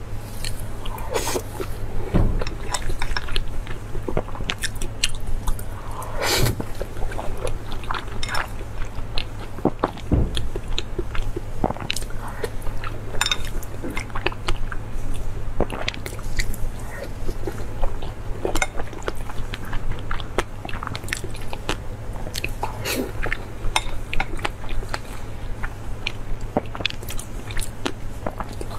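Close-miked chewing, with many small wet mouth clicks, of a person eating raw salmon rolls, over a steady low hum.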